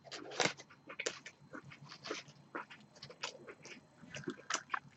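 A mouthful of crispy chicken sandwich being chewed close to the microphone: faint, irregular crunches and mouth clicks.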